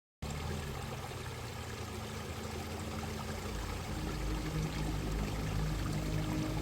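Valley stream water running in a steady rush, with sustained low music notes coming in underneath and growing slowly louder.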